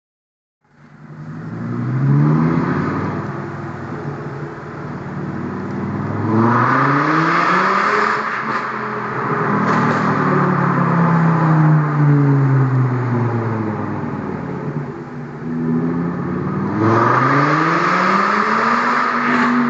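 Volkswagen Golf Mk4's 2.3-litre V5 five-cylinder engine, very loud, revving and accelerating, its pitch climbing and then falling back several times. The sound starts suddenly after a brief silence.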